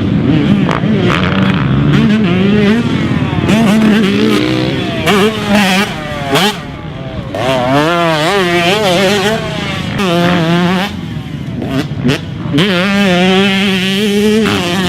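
Husqvarna TC125 single-cylinder 125cc two-stroke motocross bike ridden hard, its engine note rising and falling over and over as the throttle is opened and chopped, with brief dips between pulls and a couple of longer steady pulls near the end.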